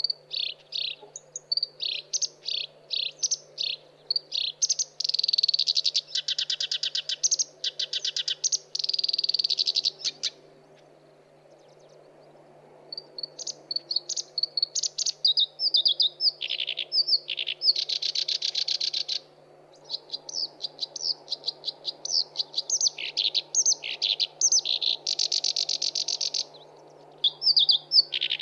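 Black-browed reed warbler singing: a fast, varied chatter of short high notes broken by harsh rattling trills, with a pause of about two seconds near the middle.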